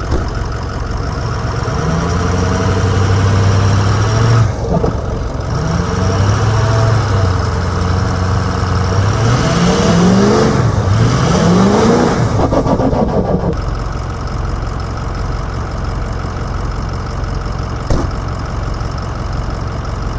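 Backhoe loader's diesel engine revved hard under load, its pitch climbing and dropping several times as it strains to pull a heavy trailer through wet ground. It then settles back toward idle about thirteen seconds in, with a single knock a few seconds later.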